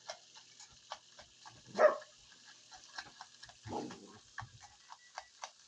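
Excited puppy giving a sharp bark or yelp about two seconds in and a lower, rougher bark near four seconds, over a run of quick, irregular ticking clicks.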